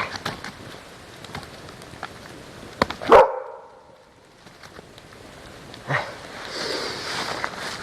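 A dog barks a few times, the loudest bark a little after three seconds in, with scattered faint clicks around it.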